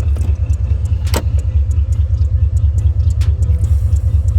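A Pontiac's engine idling: a steady, loud low rumble with a fast flutter.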